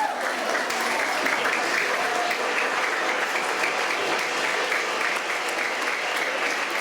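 An audience of school children applauding, a steady patter of many hands clapping, with faint voices in the crowd.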